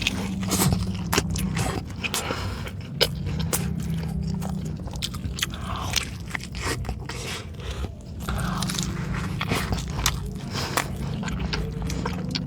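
Close-miked biting and chewing of a burger slider on a soft ube pandesal bun: wet mouth clicks and smacks throughout, over a steady low hum.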